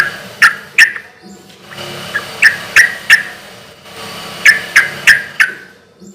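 Sooty-headed bulbul (trucuk) singing loudly: three phrases of three or four sharp, bright notes each, repeating about every two seconds.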